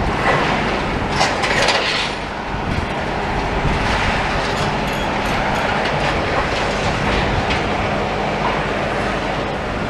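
Demolition machinery working rubble: a heavy diesel engine runs steadily under a continuous clatter and rattle, loudest about a second in.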